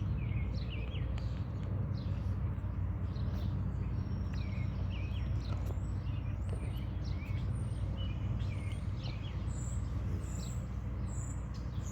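Small birds chirping and tweeting on and off over a steady low hum.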